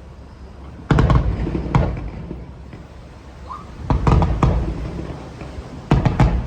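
Fireworks shells bursting: loud booms about a second in, again near two seconds, a cluster around four seconds and another near six seconds, each fading away over a second or so.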